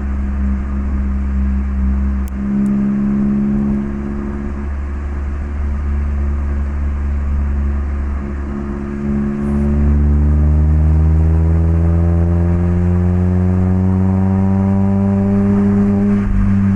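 Mazda MX-5 ND's 1.5-litre four-cylinder engine through an HKS Legamax Sports aftermarket exhaust, cruising at a steady pitch, then accelerating about halfway through with the exhaust note rising steadily for several seconds before dropping back near the end as the throttle is lifted or a gear is changed.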